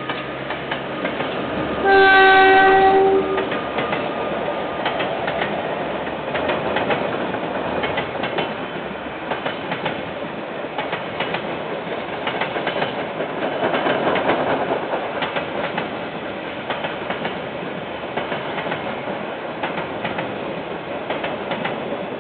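Freight train passing: the locomotive's horn sounds once for about a second, loudest, two seconds in. It is followed by the steady rumble and clatter of container wagons rolling over the rails.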